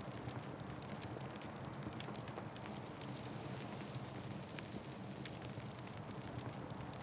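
Wood fire crackling, with many irregular sharp pops and snaps over the steady low sound of the burning flames.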